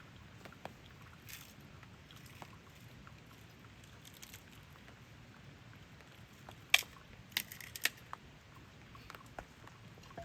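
Faint steady background with scattered small clicks and knocks, and a cluster of sharper clacks about seven seconds in.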